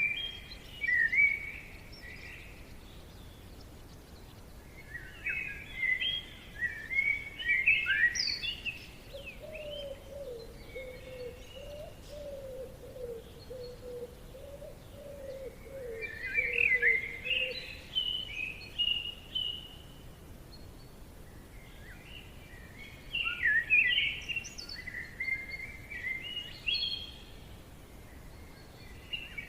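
Songbirds singing in a forest: short phrases of rapid chirping notes, each a second or two long, coming every few seconds. Through the middle a lower, wavering tone sounds for several seconds. Under it all is a faint steady background hiss.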